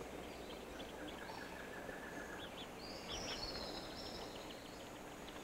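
Faint outdoor ambience with birds calling over a steady hiss. A rapid run of short repeated notes comes about half a second in and lasts about two seconds, then a higher whistled call and scattered chirps come around three seconds in.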